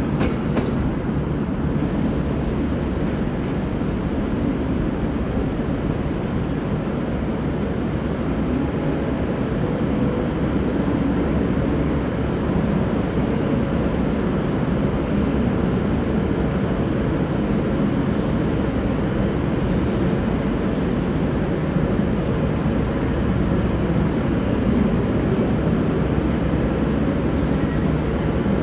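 Diesel train running, a steady low rumble.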